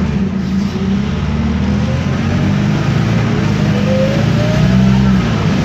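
Isobus City 1200 bus pulling away, its MAN D0836 diesel running under load, with a thin driveline whine from the ZF automatic gearbox and differential that rises slowly in pitch as the bus gathers speed.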